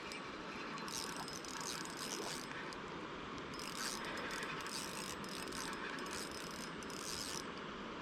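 Fishing reel ratcheting in repeated spurts as a hooked fish is fought, over the steady rush of creek water.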